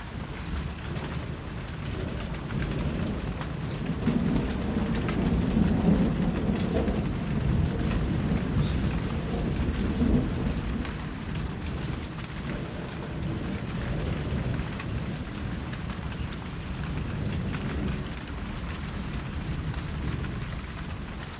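Steady rain falling, with a low roll of thunder that swells about four seconds in, peaks a couple of seconds later and dies away by around twelve seconds.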